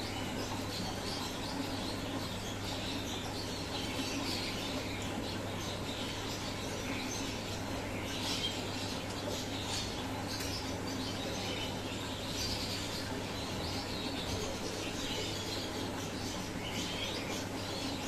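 Birds chirping, with scattered short high calls over a steady low hum.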